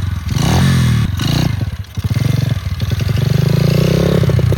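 Pit bike engine revving: a quick rise in pitch at the start, two brief dips in the first two seconds, then running steadily under throttle.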